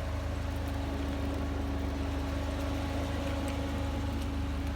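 Volvo 940 Turbo's turbocharged four-cylinder engine idling steadily.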